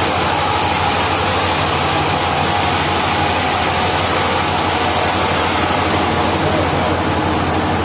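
Steady running noise of sawmill machinery, an engine-driven saw running without a break.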